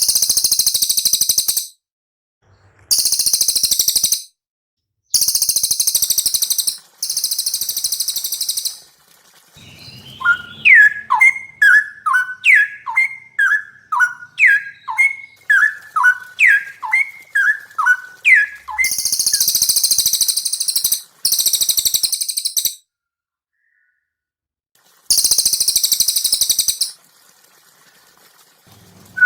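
Songbird training recording of a cililin and a straw-headed bulbul (cucak rowo) singing. It holds repeated bursts of a very high, rapid, buzzy trill, each a second or two long and cut off sharply. In the middle comes a run of about fifteen loud, down-slurred whistled notes.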